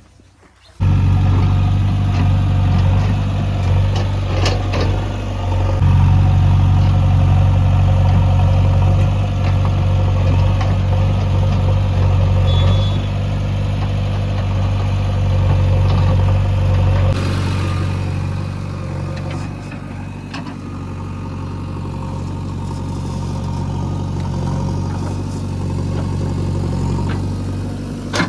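Heavy diesel engine running steadily, coming in abruptly about a second in and getting quieter about two-thirds of the way through.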